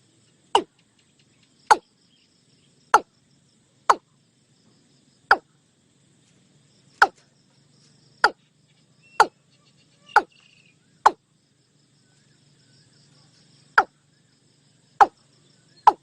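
Watercock calling: a series of short, sharp notes, each dropping quickly in pitch, repeated about once a second at an uneven pace with a longer pause midway.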